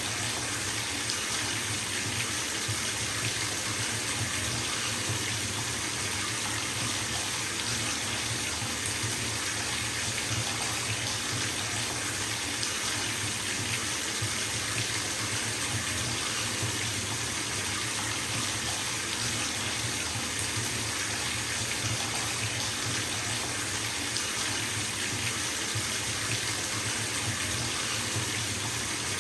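Bathtub filling from the tap: water pouring steadily into the tub, an even, unbroken hiss.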